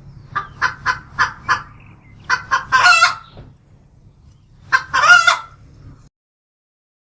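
Bird calls in three bouts, each a run of short sharp notes ending in a longer call, over a steady low hum that cuts off about six seconds in.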